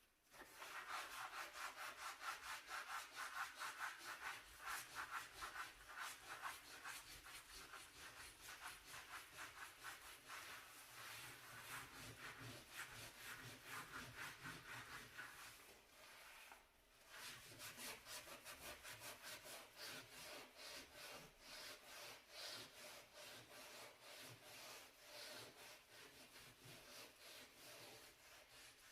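A brush scrubbing a dirty stovetop or oven surface in quick back-and-forth strokes, about three a second. The scrubbing stops briefly just past halfway, then carries on.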